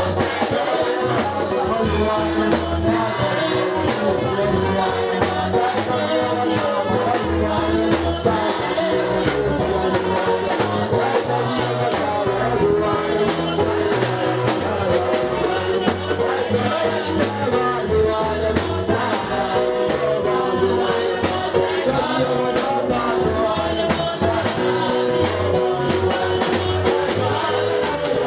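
Live gospel worship music: singers and a choir with a band playing a steady beat.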